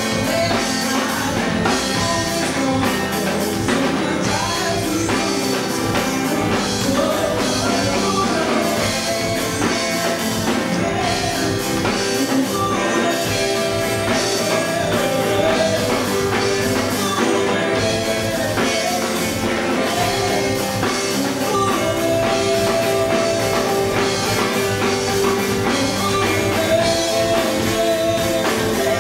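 Band music: a song with a singer over guitar and drum kit, playing steadily.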